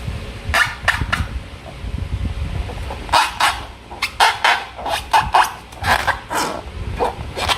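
Slime being handled and squished by hand, a run of short, irregular wet squelches and crackles that come thick and fast from about three seconds in, after a low handling rumble.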